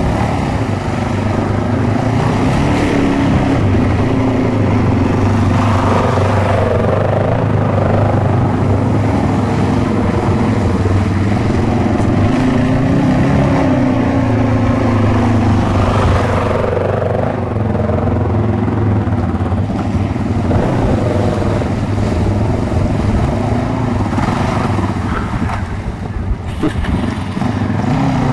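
An engine running steadily and loudly, its pitch drifting up and down a little.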